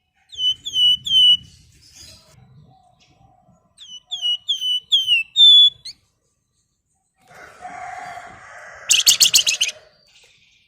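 Flamboyan bird calling: a run of four short down-slurred whistled notes, then a run of about six more, followed near the end by a loud, rapid, harsh chatter.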